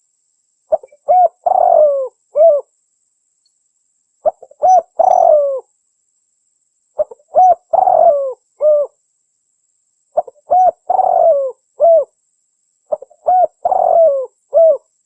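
Recorded spotted dove (tekukur) song: five phrases about every three seconds, each a few short coos, then a longer coo that falls in pitch, then one short closing coo, with clean silent gaps between phrases.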